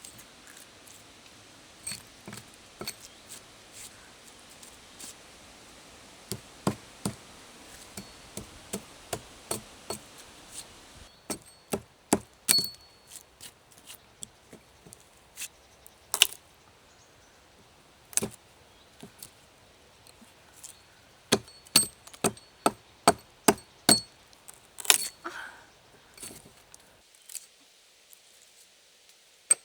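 Repeated sharp knocks of a tool striking wood, in runs of about two strikes a second broken by short pauses, with a faint steady hiss behind them during the first part.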